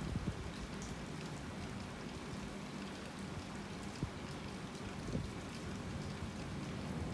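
Steady rain falling on surfaces, an even hiss with a few sharper drop impacts standing out.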